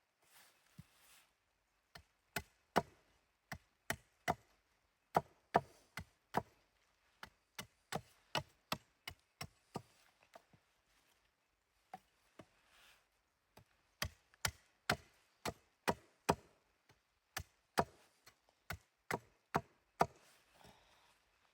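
Wood being chopped: repeated sharp blows, about two a second, in runs with short pauses between them.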